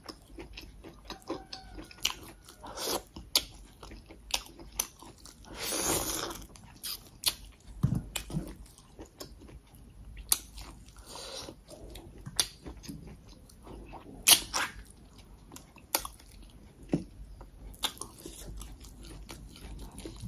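Close-miked eating: chewing and biting into crisp fried food with the mouth, with sharp crunches scattered throughout and one longer, breathy noise about six seconds in.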